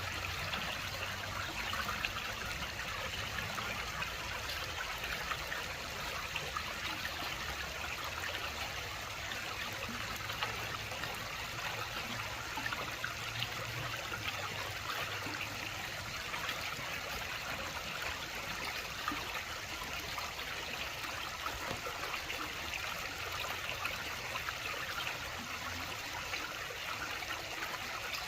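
Steady rush of running water, an even, unbroken hiss with no pauses.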